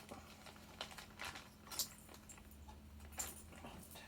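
Faint scattered light clicks and rustles of small objects being handled, with two slightly sharper clicks about two and three seconds in.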